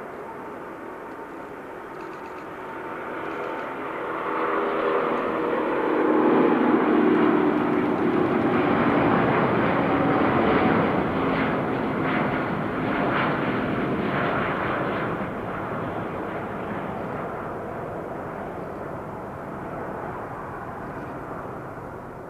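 Jet airliner's engines as the aircraft passes: the noise swells to a peak about a quarter of the way in, with engine tones sliding down in pitch as it goes by, then fades slowly.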